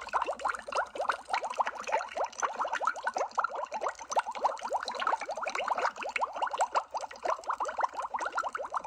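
Underwater bubbling sound effect: a dense, unbroken stream of small bubbles, each a quick rising blip, many every second.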